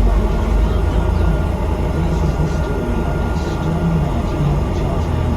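Bus engine and road noise: a steady low rumble.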